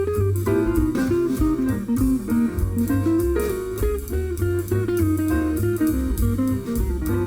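Guitar-led music with a strong bass line played back through a car audio system's speakers in the cabin.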